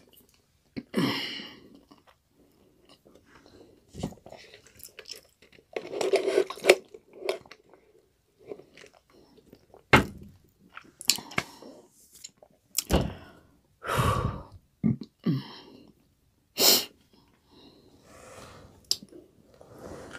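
Close-up eating sounds: chewing and crunching of crispy fried chicken in irregular bursts with short quiet gaps, broken by a few sharp knocks and thunks.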